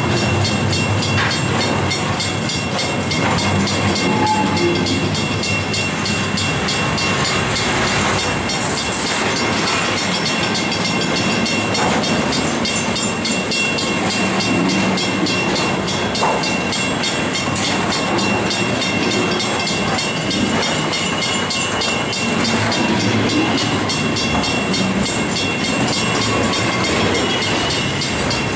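Double-stack container well cars of a freight train rolling past close by: a steady rumble and clatter of steel wheels on rail, with a thin steady high squeal over it and an occasional clank.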